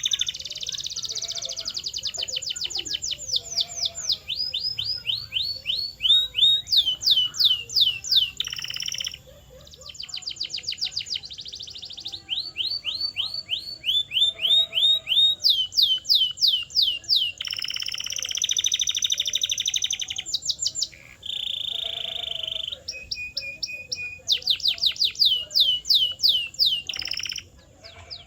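Domestic canary singing: phrase after phrase of fast, evenly repeated, high falling notes, each phrase changing to a new note type every second or two. There are a few short pauses, and a brief steady held note about two-thirds of the way through.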